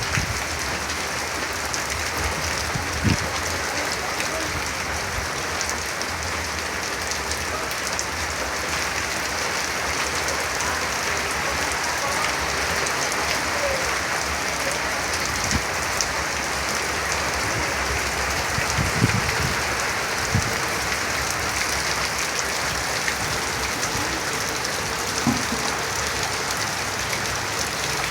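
Steady rain falling on surfaces, an even hiss with a few scattered louder drips and knocks.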